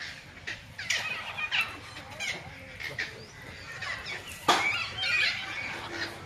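Macaws and other aviary birds calling: a series of harsh squawks over busy chirping, the loudest squawk about four and a half seconds in.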